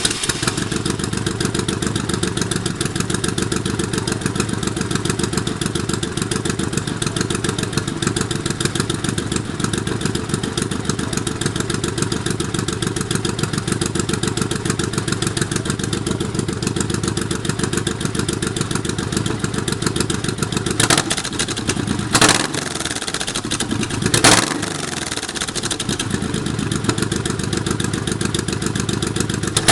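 Honda VTX1800C's big liquid-cooled V-twin running through its exhaust at a steady idle, just after starting. Near the end the throttle is blipped three times in quick succession, each rev falling back to idle.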